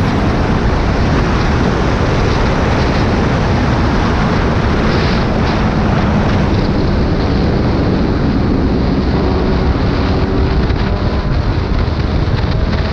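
Heavy wind rush on the microphone of a moving sport motorcycle, with the bike's engine running underneath and rising slowly in pitch in the last few seconds.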